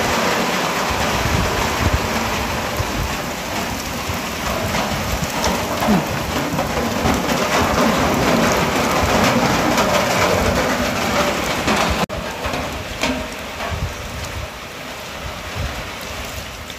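Heavy rain pouring down, a dense steady hiss of rain on the ground and standing water. About twelve seconds in it drops suddenly to quieter, lighter rain.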